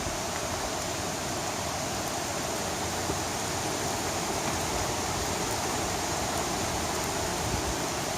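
Steady rush of fast-flowing water, an even hiss-like noise at a constant level.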